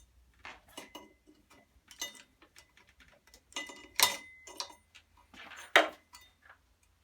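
Hand tools and small metal parts clicking and knocking irregularly while a split pin is worked into place, with two sharper metal hits about four seconds in and near six seconds, each with a short metallic ring.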